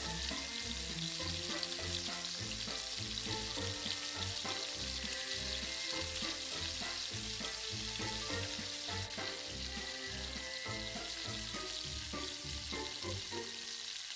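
Potato strips frying in hot oil in a miniature pan: a steady, dense sizzle, with background music underneath.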